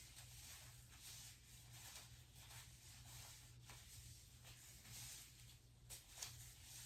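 Near silence: room tone with a low hum and faint, short rustles every second or so.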